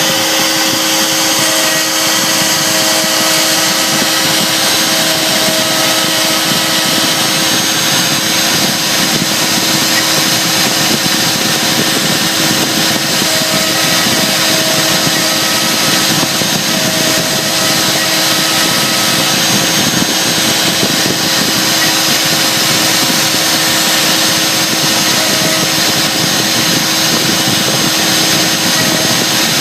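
CNC router spindle running steadily while routing an inlay pocket, with a higher whine that comes and goes every second or two as the machine moves and cuts.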